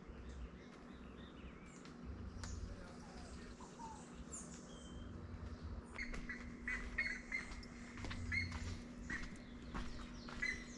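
Faint bird chirps over quiet outdoor ambience, the chirps coming in short repeated notes from about halfway through, with a steady low hum underneath.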